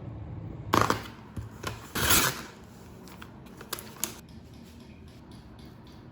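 A few short handling noises: a brief scrape or rustle about a second in, a longer one about two seconds in, and several sharp clicks, then low room tone.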